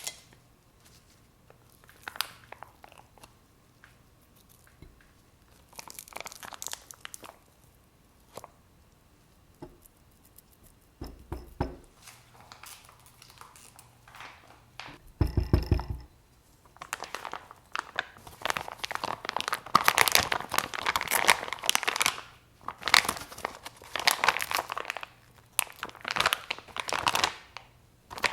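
Plastic packaging being crinkled and torn in irregular bursts, busier in the second half, with a brief low buzzing rattle about fifteen seconds in.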